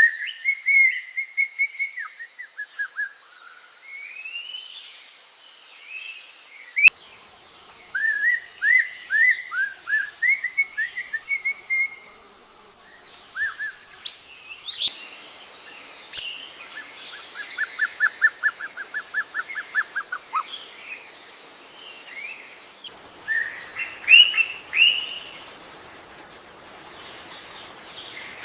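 Leafbird singing: phrases of quick, varied chirps and whistled notes, with a fast even trill partway through, over a steady high-pitched background hiss.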